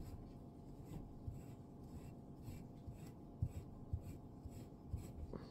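Faint scratchy rubbing and handling noises, with a few soft knocks near the end.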